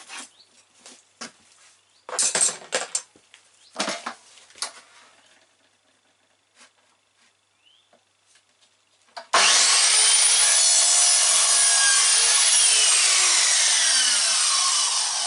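Knocks and scrapes of a laminate board being handled and set in place. About nine seconds in, a 1400 W Silverline mitre saw starts abruptly, its motor whine rising as it spins up. It cuts through the laminate, then the whine falls as the blade winds down near the end.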